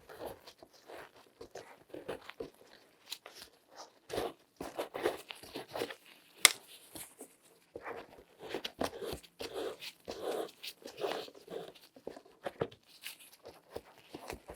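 Latex-gloved hands rubbing and handling things in irregular short rustles and scrapes, with one sharp click about six and a half seconds in.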